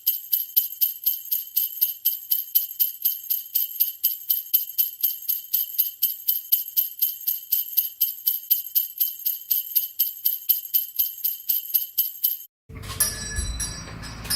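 Jingle bells shaken in a steady rhythm, about four shakes a second. They cut off suddenly near the end and give way to a short stretch of room noise.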